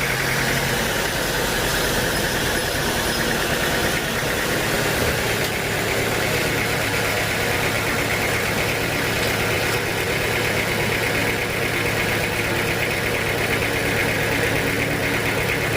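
Sawmill machinery running steadily: a constant low engine hum under a steady higher whine, with no break or change in pace.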